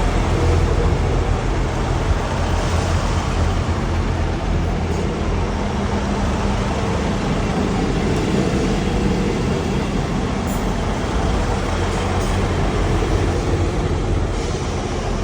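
A passenger train running, a steady loud rumble with a low engine hum underneath.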